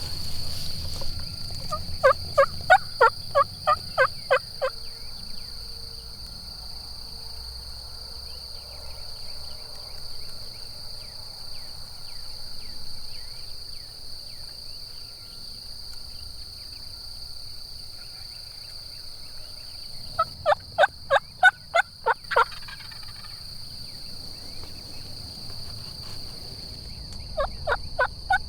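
Osceola wild turkeys calling: three runs of rapid, evenly spaced notes, about two seconds in, around twenty seconds in and again near the end. Between them there is a steady high insect drone.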